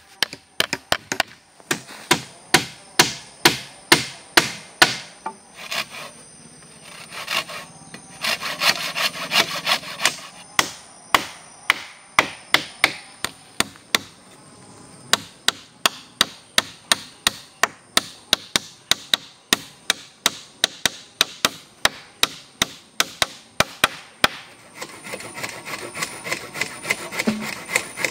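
Hammer driving nails into wood: runs of sharp strikes, about two to three a second, with a couple of short pauses.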